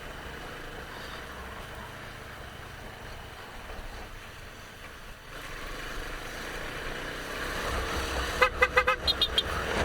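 Steady wind and road noise from riding. Near the end a vehicle horn beeps in a quick run of about six short toots.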